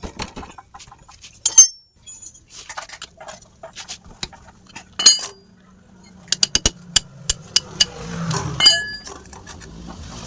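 Metal tools clinking and tapping against metal in a series of sharp, ringing clicks, with a quick run of clicks a little past the middle. A low hum grows louder over the second half.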